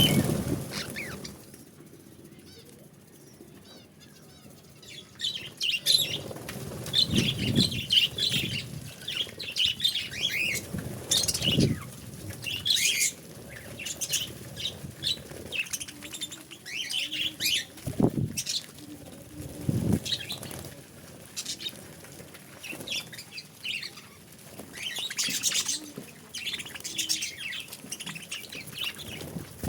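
Budgerigars chirping and chattering in quick, busy bursts throughout, with a few louder low thuds in between, the loudest right at the start.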